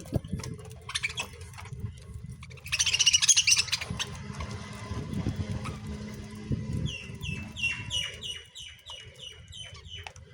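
Pet lovebirds chirping: a loud burst of high chatter about three seconds in, then a quick run of short, falling chirps, about four a second, near the end, over a low rumble.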